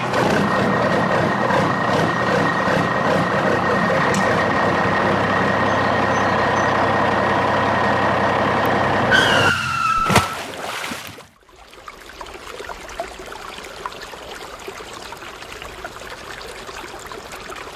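Vehicle engine running steadily. About nine seconds in there is a brief falling squeal and a sharp click, then it gives way to a much quieter steady hiss.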